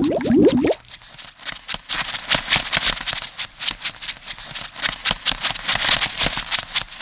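Crab sound effect: a quick bubbling sound that stops just under a second in, then a fast run of dry clicks and rattling, like a crab's claws and legs clattering.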